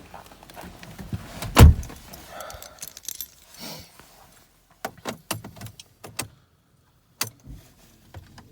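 A car door shutting with a single loud thump, followed by keys jangling and a few separate sharp clicks. There is no engine running yet.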